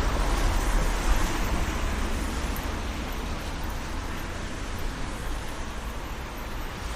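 City street traffic: a steady rushing noise with a low rumble, slowly growing quieter as a vehicle recedes.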